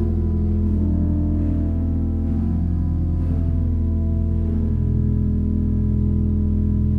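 Slow sustained chords on an organ, held and changing gently over a steady deep bass note.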